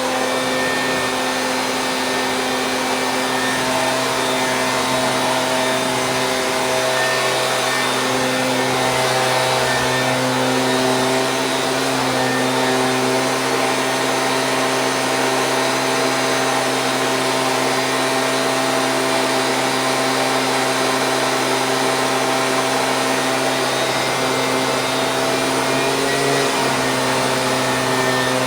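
Stihl BG 86 handheld leaf blower's two-stroke engine and fan running at a steady speed, a constant droning blow with a slight wobble in pitch about 26 seconds in.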